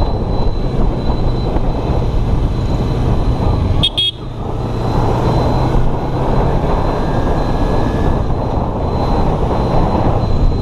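Yamaha R3's parallel-twin engine running steadily as the bike is ridden through traffic, with a brief drop in level about four seconds in.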